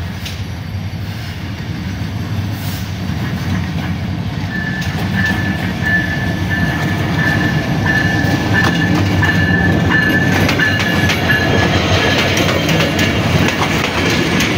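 Diesel locomotive of a Bangladesh Railway express train approaching and passing close, its engine rumble growing louder as it nears. From about four seconds in a thin, high, steady whine runs along with it, and near the end the wheels of the passing coaches clatter over the rail joints.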